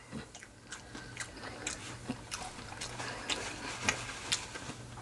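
Close-miked chewing of fried chicken: irregular soft crunches and wet clicks of a mouthful being chewed, over a faint steady low hum.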